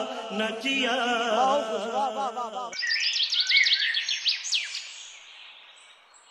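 Birds chirping: a run of quick, high, sweeping chirps that starts abruptly about three seconds in and fades away toward the end. Before it, a man's voice is heard.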